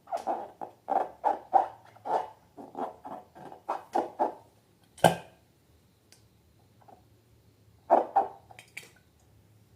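Slime being squeezed and kneaded by hand, a quick run of soft squelches about two or three a second that stops after about four seconds. A sharp click comes about five seconds in, and a couple more squelches near eight seconds.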